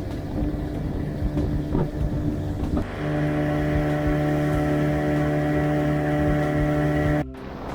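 Motorboat engine running. A low rumble for the first few seconds, then a loud, steady engine tone at one pitch sets in about three seconds in and cuts off abruptly near the end.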